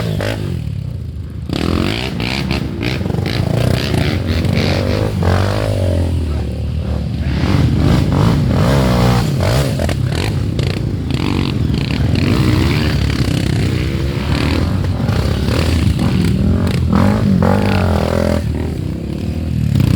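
Off-road trail motorcycle engines revving, the pitch rising and falling again and again, with scattered clatter.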